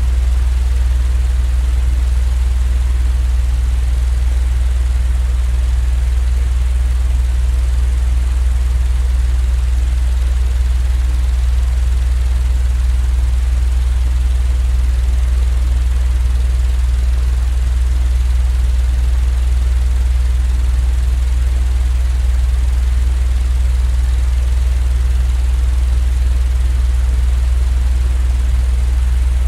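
Steady, unchanging deep rumble with an even hiss above it: a continuous white-noise sleep track.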